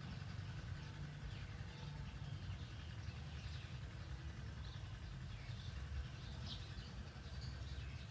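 Faint, scattered bird chirps over a steady low rumble of outdoor background noise.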